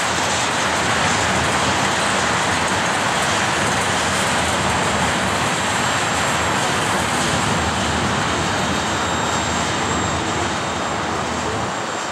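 Railroad tank cars rolling past on the track: a steady, dense rush of wheel-on-rail noise. Faint thin high tones appear in the second half, and the sound grows a little quieter near the end.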